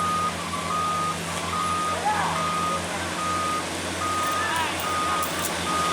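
A heavy truck's reversing alarm beeping steadily, about one beep a second, over a diesel engine running. Voices call out twice.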